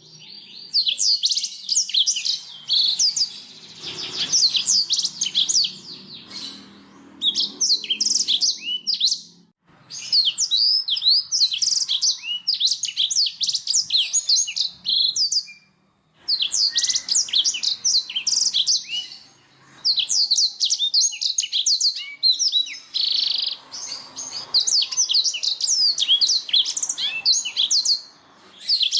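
Domestic canary singing: long runs of fast, high trills and chirps in phrases, with a few short pauses between them.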